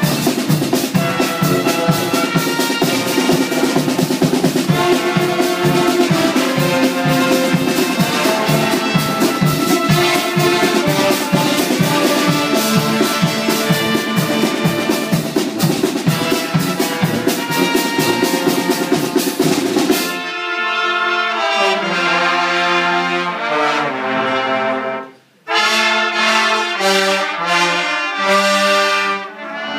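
Brass-band music with trumpets and trombones over a steady drum beat. About 20 s in the beat stops and the brass carries on alone with slower held notes, breaking off briefly a few seconds later.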